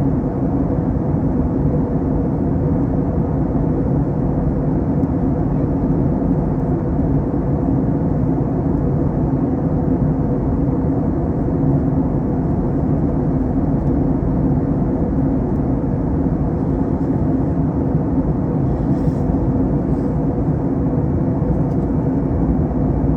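Airbus A321 cabin noise in flight: a steady low rush of engines and airflow with a steady hum, unchanging throughout.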